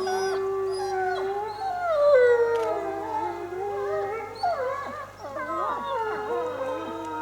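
A pack of wolves howling in chorus: several long, overlapping howls that glide up and down in pitch at once. It is a group howl set off by the zoo's closing-time announcement.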